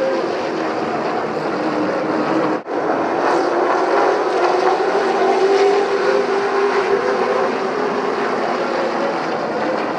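Engines of a field of super trucks running at race speed around a short oval, a steady blended drone whose pitch drifts slowly up and down. The sound cuts out for an instant about two and a half seconds in.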